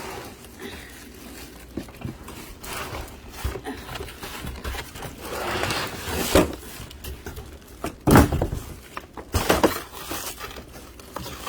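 Hard plastic cat litter box parts and packaging being handled: rustling and scraping with a few knocks, the loudest about eight and nine and a half seconds in.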